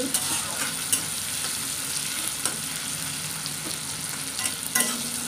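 Chopped tomatoes and ginger sizzling in hot oil in a metal kadhai as a spatula stirs them, with a few sharp scrapes and taps of the spatula against the pan.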